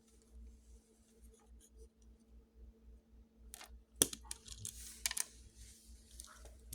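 Plastic Lego pieces being handled and pressed together: faint rustling, then scattered small clicks, the sharpest about four seconds in, under a faint steady hum.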